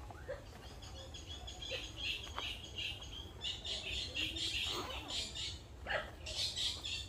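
Small birds chirping in quick, repeated high calls that grow busier about halfway through, with a few faint clicks.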